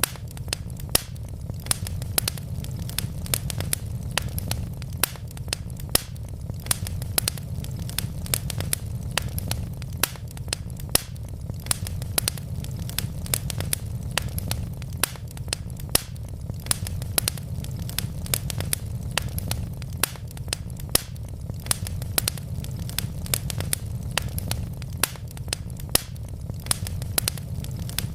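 Wood logs burning in a fireplace, crackling with sharp, irregular pops and snaps, several a second, over a steady low rumble of the flames.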